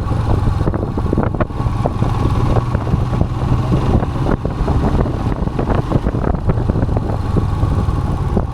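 Royal Enfield Himalayan's single-cylinder engine running steadily while the motorcycle is ridden, with many small knocks and rattles scattered over it.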